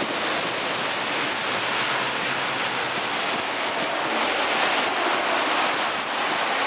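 Typhoon wind blowing hard: a loud, steady rushing noise.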